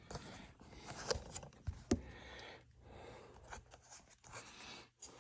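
Light handling noises: a few sharp clicks and taps over soft scraping and rustling, as things are picked up and moved on a workbench.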